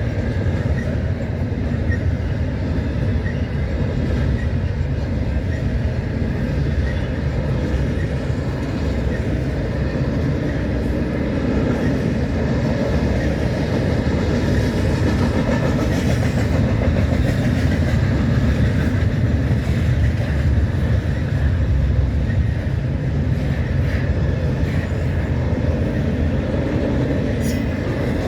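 Freight train rolling past: a steady low rumble of steel wheels on rail, with scattered clicks.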